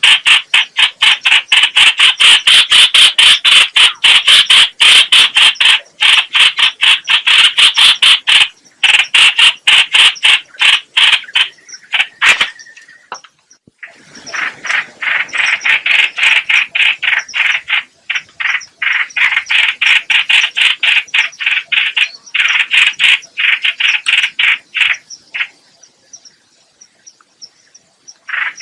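Lure recording of the bird called trao trảo or hoành hoạch in Vietnamese, giving a long, loud, rapid chattering call of quick harsh notes. There is a short pause about halfway, a second run, and the calling stops near the end.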